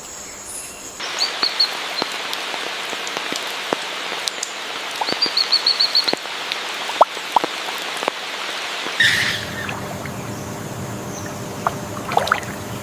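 Birds calling over a steady hiss like rain or running water, with a quick run of about eight high, rapid notes about five seconds in. About nine seconds in, the background changes abruptly to a different one with a low steady hum and other bird calls.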